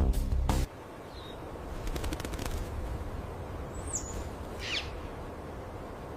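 Percussive soundtrack music cuts off suddenly just under a second in. A faint outdoor hiss follows, with a few brief high bird chirps, the loudest a quick downward sweep near the end.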